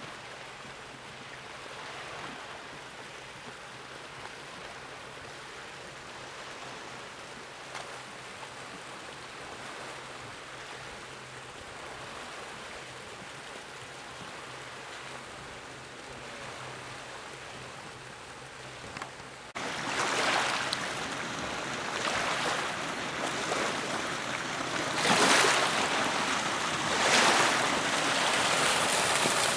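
Motorboat under way on a lake: rushing water and wind noise over a faint low engine hum. About two-thirds of the way in, the rushing abruptly gets louder, with two surges near the end.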